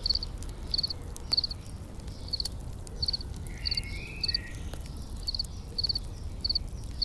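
Crickets chirping in short, high, triple-pulsed chirps, two or three a second, over a steady low rumble with a few faint crackles from a campfire.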